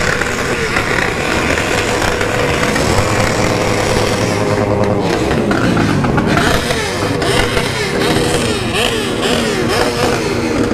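Several remapped sport motorcycle engines revving together, their pitches climbing and falling over and over and crossing one another, over a steady rushing noise.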